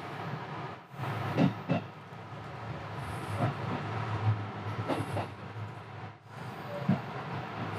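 JR West Special Rapid electric train running out of the station, heard from inside the leading car: steady running noise, with the wheels clacking sharply over rail joints and points a few times, some clacks coming in pairs.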